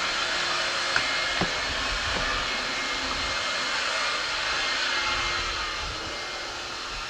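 Furnace running: a steady rushing hiss with a faint steady hum, and two light knocks between one and one and a half seconds in.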